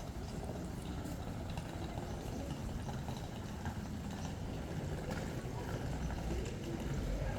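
Steady outdoor street ambience: a low rumble with a few faint clicks scattered through it.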